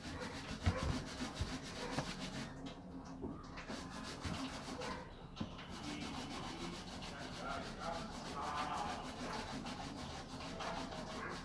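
Spoon stirring and scraping through a thick slime mixture of glue and colorant in a bowl, a steady rubbing scrape.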